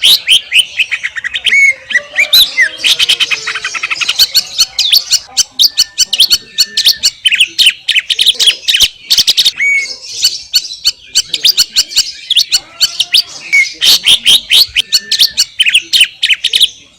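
Green leafbird (cucak ijo) singing a rapid, continuous run of sharp chirps and short whistled notes, many per second, with brief pauses about 2 and 10 seconds in.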